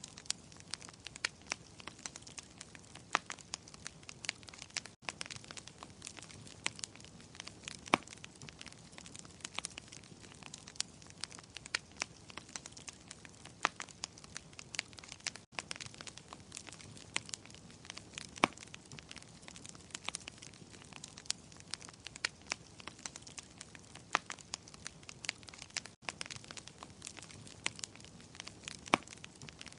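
Wood fire crackling in a fireplace: a low steady hiss with constant irregular snaps and pops, a few of them sharp and loud.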